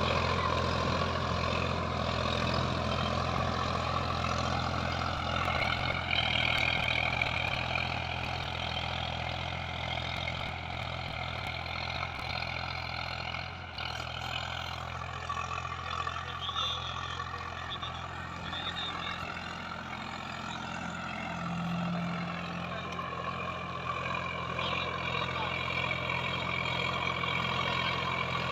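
Sonalika DI-734 tractor's diesel engine running steadily at an even speed.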